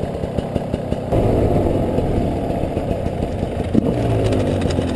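Two-stroke 300 cc enduro dirt bike engine running, getting louder about a second in, its pitch rising and falling as it is revved.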